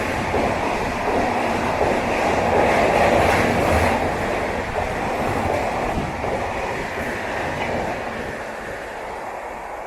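Mumbai Tejas Rajdhani express passing at speed on the adjacent main line, its coaches rushing by. It is loudest about three to four seconds in, then fades away as the train recedes.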